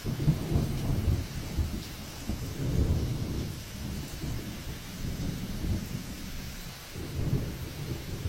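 Hurricane storm sound: heavy rain hiss under irregular low rumbling gusts that surge and fade every second or two.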